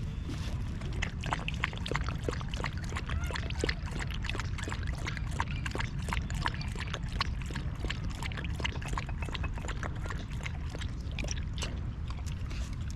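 A stray cat lapping water, a quick, irregular run of small wet clicks over a low steady rumble.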